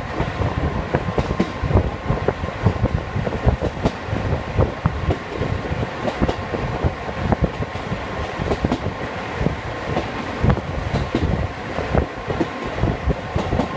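Diesel railcar under way on single-track line, heard from inside the cabin: a steady rumble with irregular wheel clatter and knocks from the track, and a faint steady whine.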